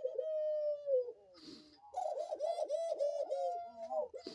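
Pet doves cooing: one long drawn-out coo that falls at its end, then a quick rippling run of coos. There is a short rustle near the middle and a click near the end.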